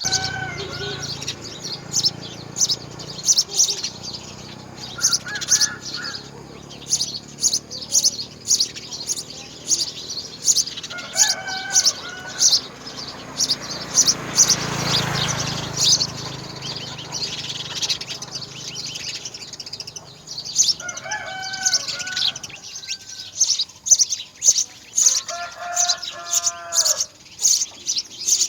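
Nestling birds chirping in a nest, short high chirps repeating about twice a second, with a few lower, fuller bird calls in between and a rustle about halfway through.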